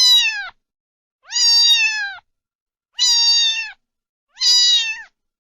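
Cat meowing over and over: four high meows about every second and a half, each held level and dropping in pitch at the end.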